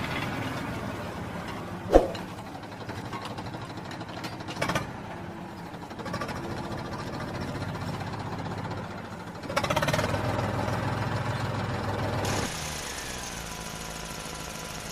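A motor running unevenly, with a sharp knock about two seconds in and a louder stretch from about ten to twelve seconds, then settling to a steadier, quieter hum.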